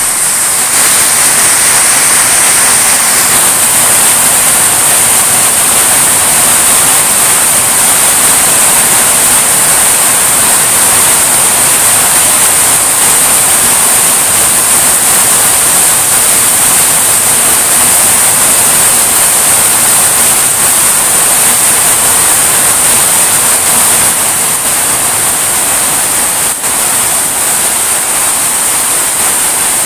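Heavy rain pouring steadily: a loud, even hiss of a downpour.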